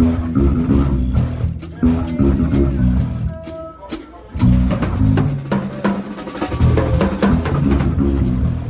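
Live band playing a reggae groove with drum kit and bass. The band drops out briefly about three seconds in, leaving a short held chord, then comes back in with the full kit.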